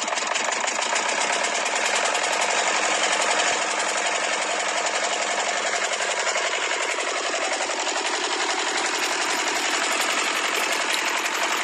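Small motor of a homemade miniature tractor and flour mill running steadily, with a rapid, even mechanical clatter.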